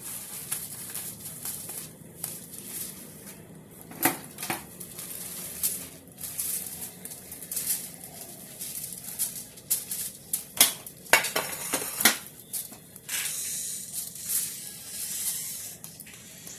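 Kitchen utensils and dishes clinking and clattering in irregular knocks, with a cluster of sharper strikes about four seconds in and again around eleven to twelve seconds in.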